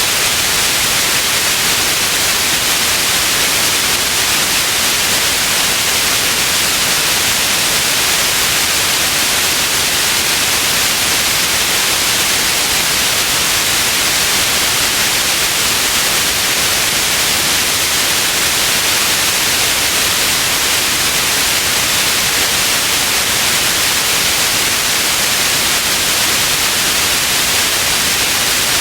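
Steady white noise: an even, unbroken hiss, strongest in the upper range, with no change in level.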